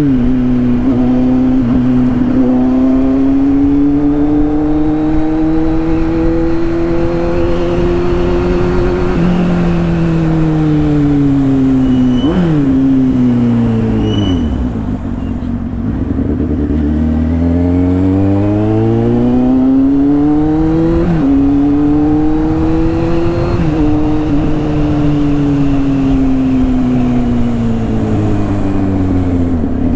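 Kawasaki Z800's inline-four engine through a straight-through exhaust, being ridden. The note climbs slowly, falls away about halfway with a quick blip, then climbs again with two sudden drops in pitch as it shifts up near the end.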